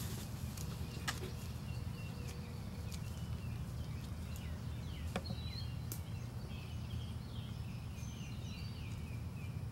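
Songbirds chirping and twittering in short, repeated calls over a steady low rumble, with a few faint clicks.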